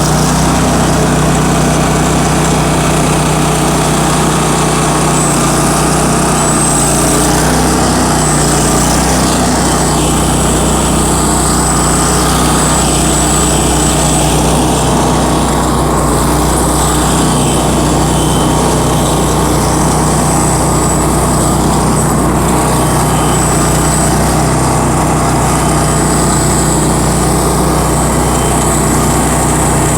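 Bandit ZT1844 stump grinder's engine running steadily at a constant speed.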